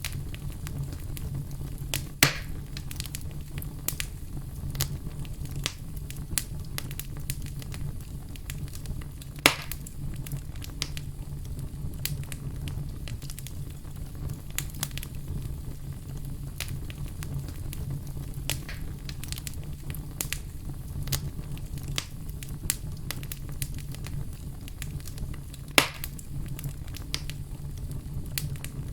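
Wood fire crackling: a steady low rumble and hiss of burning with many small snapping pops, and three louder pops about two seconds in, near the middle and near the end.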